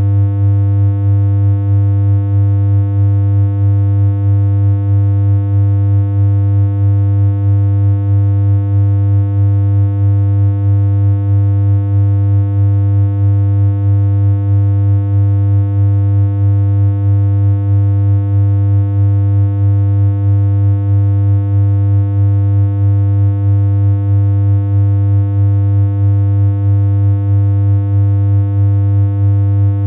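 A loud, unchanging electronic synthesizer hum: one low pitch with a buzzy stack of overtones, held without a break, its loudness fluttering slightly and regularly.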